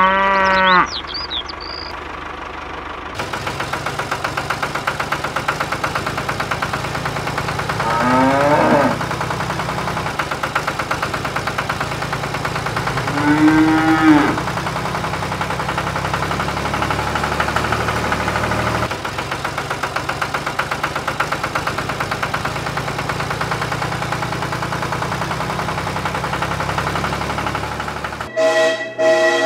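A cow mooing three times, at the start, about eight seconds in and about thirteen seconds in, over a steady, rhythmic engine-like running sound that starts a few seconds in. Near the end a different sound with several steady whistle-like tones takes over.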